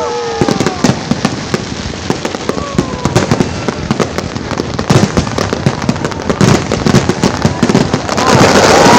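Many fireworks going off: a rapid, irregular scatter of bangs and crackles, with falling whistles in the first half-second and again about three seconds in. About eight seconds in, a steady loud noise with a held tone takes over.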